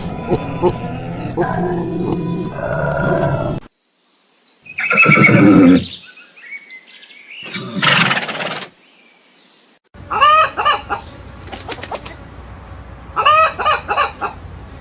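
A run of short, separate animal calls from different animals, broken by sudden cuts and gaps: a mixed stretch at the start, two loud calls in the middle and quick repeated calls near the end.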